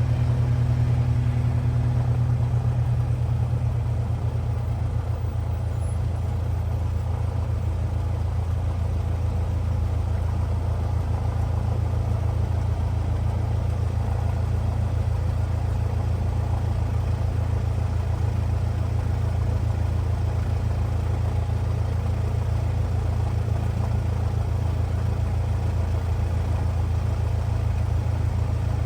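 Cessna 172R's four-cylinder Lycoming engine and propeller running steadily, heard as a constant low drone in the cockpit.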